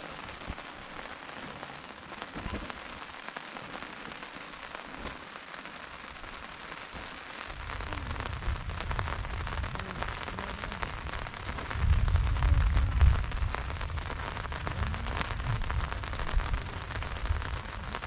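Heavy rain falling, a dense patter of drops. A low rumble comes in about seven or eight seconds in and is loudest around twelve to thirteen seconds.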